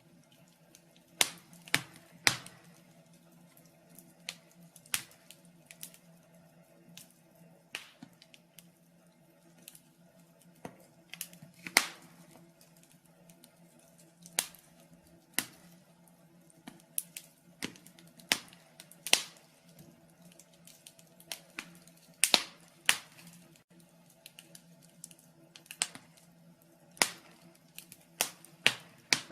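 Wood fire burning in a fireplace, crackling with sharp pops at irregular intervals, some much louder than others, over a faint steady low hum.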